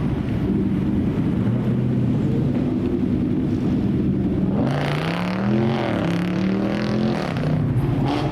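Car engine idling steadily, with a short rev a little past halfway through that rises in pitch and falls back to idle.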